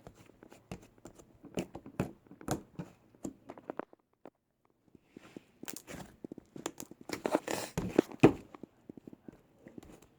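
Slime being squeezed and worked by hand: a string of irregular sticky clicks and pops, with a short pause partway through and a denser run of pops after it.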